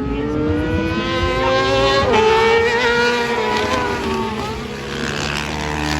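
Racing motorcycle engine at high revs going past, its pitch climbing with a quick shift about two seconds in, then falling away, with a noisier rush of engine sound near the end.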